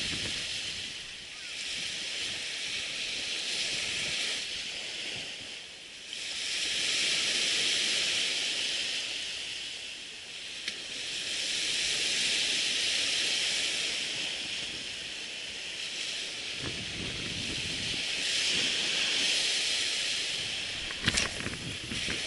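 Surf breaking and washing up the beach, the hiss swelling and fading every five or six seconds. A low wind rumble on the microphone comes in for the last few seconds.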